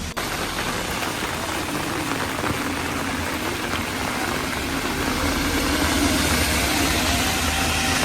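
Steady rushing noise with a sudden cut just after the start, growing slightly louder toward the end.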